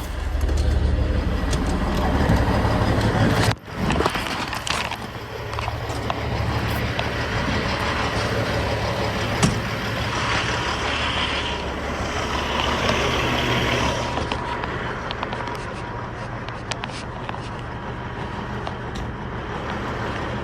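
A heavy vehicle's engine running steadily, with a brief break about three and a half seconds in and a single sharp knock a little later.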